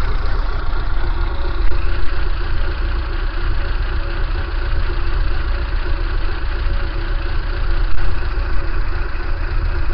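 Kia Pride engine idling roughly, with a few sudden louder bumps about two seconds in and again near eight seconds: abnormal jolts at idle.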